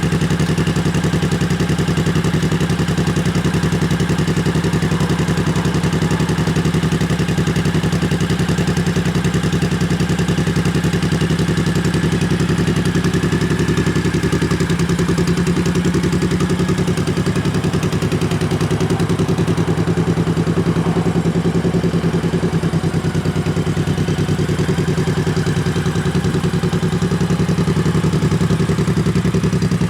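1999 Honda Shadow 1100's V-twin engine idling steadily through its gutted stock exhaust.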